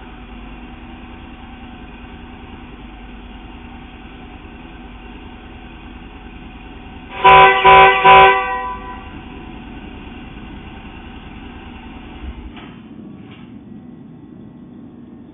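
A car horn sounds three short blasts in quick succession, over a steady low hum. The hum stops with a couple of faint clicks near the end.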